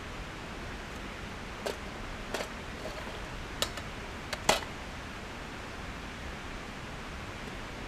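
Parts of a Trangia cook kit being handled: a handful of light clicks and knocks, the last the sharpest, over a steady background hiss.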